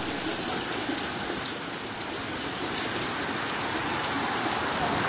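Outdoor yard ambience: a steady high-pitched insect trill over an even rushing hiss, with about five short sharp chips scattered through.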